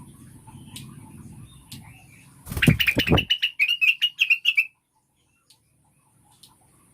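Cucak wilis (blue-winged leafbird) calling: a brief loud flutter of wings, then a quick run of high chattering chirps, about eight a second, that stops abruptly. A low hum sits under the first half.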